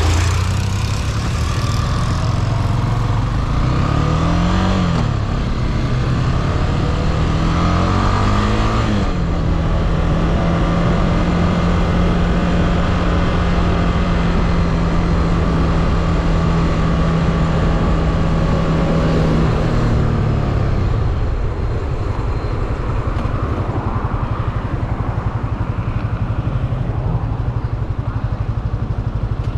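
Motorcycle engine heard from the rider's seat, revving up and shifting through the gears, then holding a steady cruising pitch for about ten seconds before the throttle is eased off and the pitch drops.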